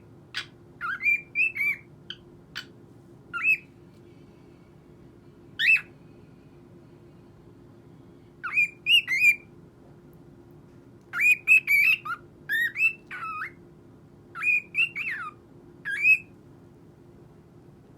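Cockatiel calling and whistling in short bursts of sharp, gliding chirps, in clusters separated by pauses of a second or more.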